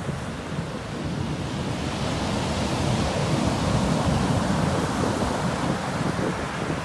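Sea waves breaking and washing up on a shore, a steady rush of surf that swells to a peak in the middle and eases slightly near the end.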